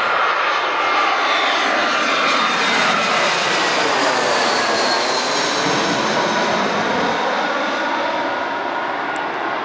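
Airliner passing low overhead, its engines a loud rushing noise with a whine sliding in pitch as it goes by, fading slightly near the end.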